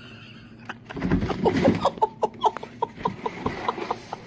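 An animal gives a run of short, pitched calls at about three a second, with a loud low rumble about a second in.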